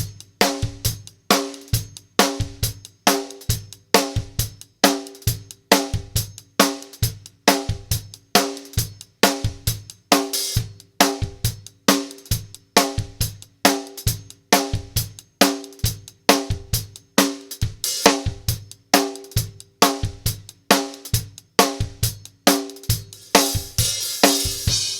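Isolated recorded drum-kit track, kick and snare with hi-hat keeping a steady beat of about two hits a second, a cymbal wash coming up near the end. It is run through an LA-2A-style tube opto compressor.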